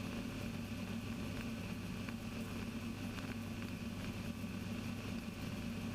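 Steady low drone of the Kitfox's Rotax 582 two-stroke engine in flight, heard faintly in the cockpit audio.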